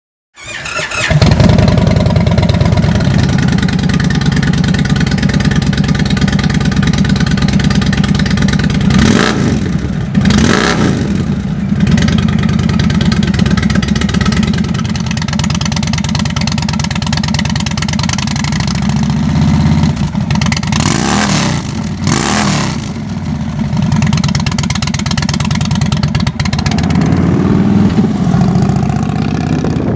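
Indian Chief Bobber's V-twin engine through aftermarket slip-on mufflers, catching about half a second in and then idling. The throttle is blipped in sharp revs twice around nine to ten seconds in and twice again around twenty-one to twenty-two seconds in, with a longer rev near the end.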